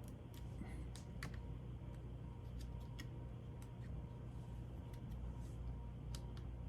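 Scattered small clicks and taps, about a dozen at irregular intervals, from laptop parts being handled and fitted into place during reassembly, over a steady low hum.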